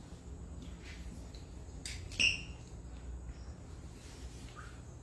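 A single sharp metallic click with a short ringing tail about two seconds in, from camera gear being handled, over faint steady outdoor background.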